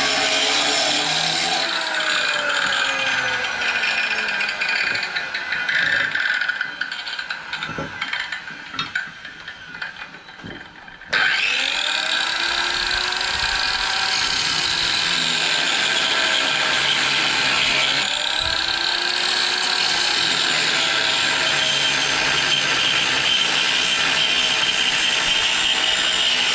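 Angle grinder working a piece of hardened leaf-spring steel. The motor's pitch sags as the disc bites into the steel and rises again as it is eased off. The sound fades for a few seconds midway and cuts back in sharply about eleven seconds in.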